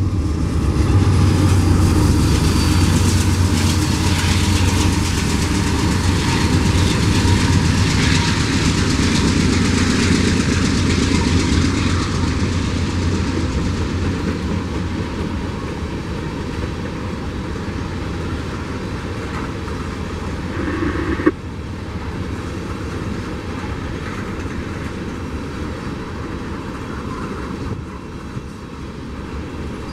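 A freight train rolling past with steady wheel-on-rail clatter and a low rumble that slowly fades. A single sharp knock about two-thirds of the way through, after which the sound is a little quieter.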